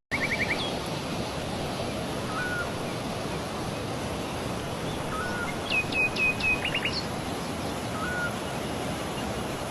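Birds calling over a steady rushing background noise. There is a quick trill right at the start, a short rising note heard three times about three seconds apart, and a run of four quick downward-sweeping chirps and a short trill a little past the middle.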